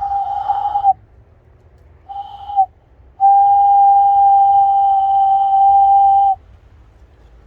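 Cupped-hand whistle, a bird call blown through the hands: three steady notes, a short one, a shorter one, then one long held note of about three seconds. It is a high-pitched hand call made by moving the thumbs, the left a little lower than the right.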